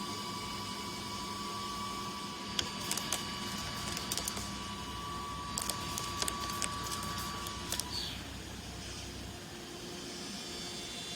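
Okuma MB46VA vertical machining centre drilling aluminium with a Tungaloy DrillMeister head-exchangeable drill: a steady high whine, with scattered sharp ticks from about two and a half seconds in. Near eight seconds in the whine and ticks stop and the pitch falls away as the spindle winds down, leaving a steady hiss.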